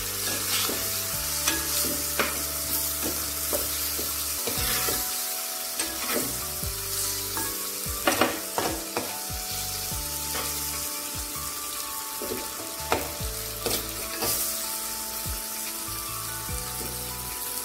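Sardines with shallots, chillies and soaked tamarind sizzling in coconut oil in an unglazed clay pot, stirred with a steel spoon that scrapes and knocks against the pot's sides again and again.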